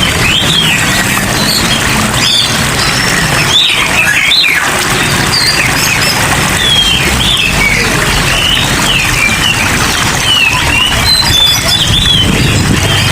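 Many songbirds chirping and calling, short quick notes overlapping one another, over a steady hiss of rain water, with a low hum underneath.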